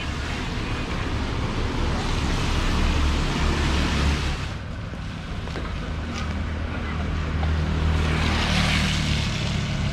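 Traffic on a rain-wet street: a low engine hum with the hiss of tyres on the wet road, swelling twice as vehicles pass.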